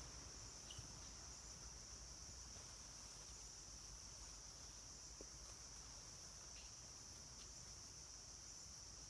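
Faint, steady, high-pitched drone of forest insects, with a few faint clicks.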